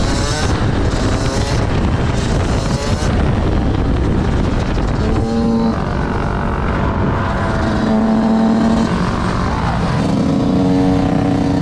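Vehicle engines running loud, with engine notes held steady for about a second at a time, the first about halfway through and another near the end.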